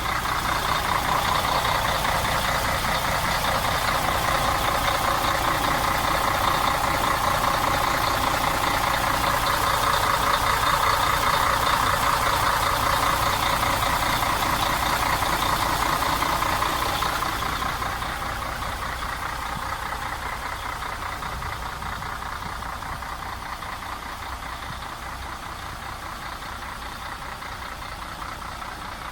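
MAN TGA 18.360 truck's six-cylinder diesel engine idling steadily with a fast diesel clatter. A little over halfway through it becomes quieter and duller.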